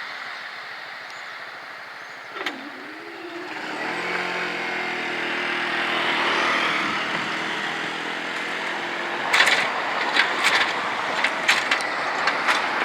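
Road traffic moving across the crossing: a car engine pulling away from about four seconds in, its pitch rising gently, over steady tyre noise. A run of sharp knocks follows near the end.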